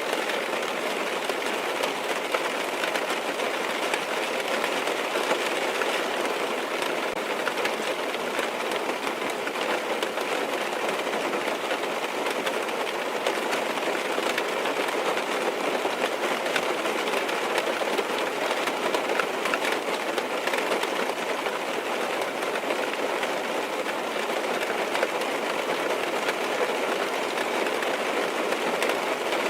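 Steady rain pattering on a car's windows and roof, heard from inside the cabin as an even hiss dotted with fine drop ticks.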